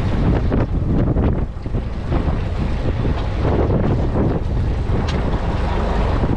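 Wind buffeting the microphone aboard a fishing boat at sea: a dense, gusty rumble over the sound of the boat and water.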